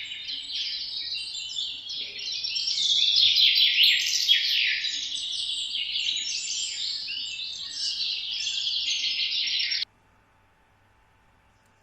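Parrot chirping and chattering in a dense, unbroken stream of high calls that cuts off suddenly near the end.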